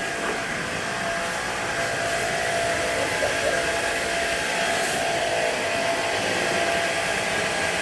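Air conditioner running: a steady rush of blown air with a faint whine through it.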